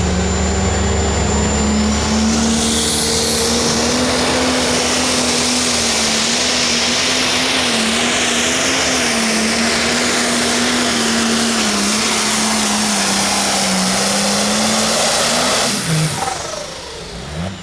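Turbocharged diesel pulling tractor running flat out under load on a pull, its engine pitch held high and wavering slightly, with a dense rushing hiss over it. About sixteen seconds in the engine is throttled back and its pitch drops away as the run ends.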